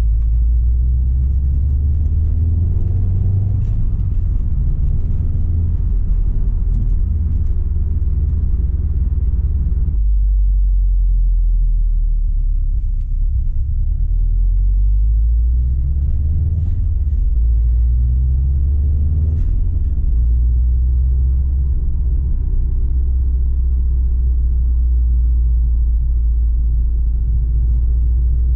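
Tuned Subaru Impreza STI's turbocharged flat-four engine running through a Milltek exhaust while driving, a steady low rumble. The higher part of the engine note drops away suddenly about ten seconds in, leaving a deeper, smoother drone.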